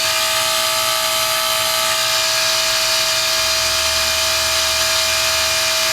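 2004 Carrier 3-ton heat pump outdoor unit running steadily in its defrost cycle: a steady mechanical whine over a constant hiss, with a low hum joining about three and a half seconds in and dropping out near the end.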